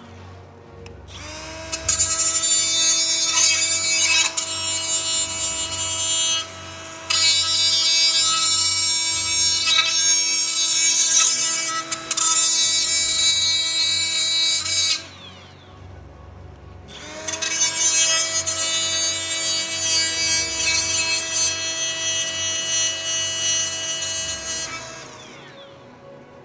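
Small angle grinder grinding metal bracket areas bare for welding, in two runs. It spins up about a second in, grinds with a steady whine and hiss, briefly drops out, runs again and winds down; then it spins up again for a second, shorter run that winds down near the end.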